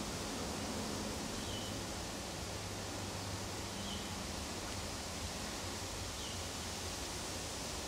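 Steady outdoor background hiss with a faint low hum. A faint, short, high chirp sounds three times, about every two and a half seconds.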